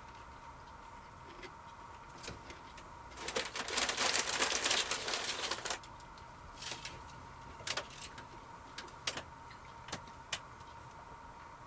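Crackling from a bag of Lay's crisps: a dense burst of crackling lasting about two and a half seconds, starting about three seconds in, then a handful of single sharp crackles. A faint steady hum runs underneath.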